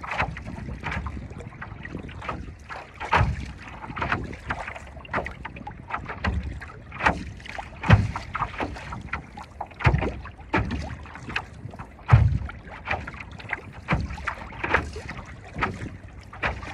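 Choppy water slapping and splashing against a paddleboard in irregular bursts, a few stronger slaps every couple of seconds, over a low rumble of wind on the microphone.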